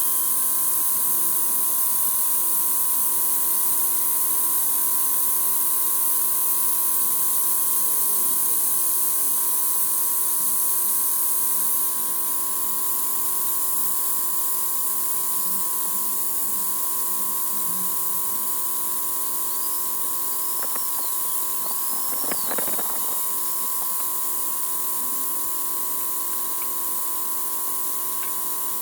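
Air-powered oil siphoning tool (a venturi evacuator run on compressed air) hissing steadily with a whine while it sucks engine oil out; the hiss drops slightly about 12 seconds in. Around 20 to 23 seconds a few short high chirps and a brief clatter of clicks sound over it.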